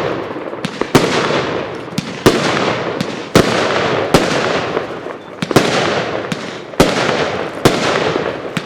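Consumer firework cake (Gate of Heaven 2) firing about a shot a second: each a sharp bang followed by a fading hiss of strobing stars, with some louder salute reports among them.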